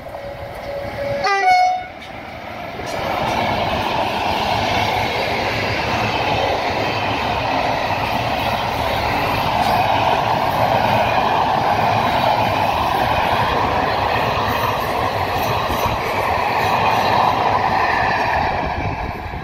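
ONCF E 1408 electric locomotive sounding its horn in the first two seconds, a short lower tone and then a louder, higher blast. Its train of passenger coaches then rolls past close by with a steady rumble of wheels on rail, easing off near the end.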